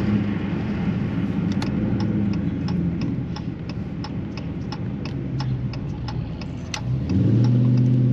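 Car engine running at low speed while a turn signal ticks about three times a second. About seven seconds in, the engine gets louder as the car pulls away.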